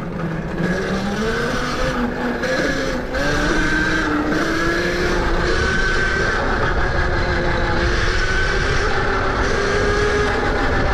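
Tuttio electric dirt bike's motor whining as the bike rides along, its pitch rising over the first few seconds as it speeds up and then holding fairly steady. Rushing wind and tyre noise sit under the whine.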